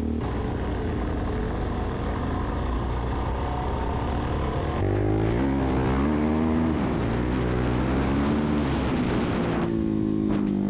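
Suzuki DR-Z400S single-cylinder four-stroke dirt bike engine running under way. It holds steady at first, then from about five seconds in the revs rise and fall a few times before settling again near the end.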